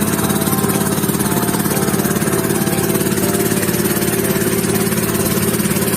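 A small motor boat's engine running steadily, with a rapid, even firing beat.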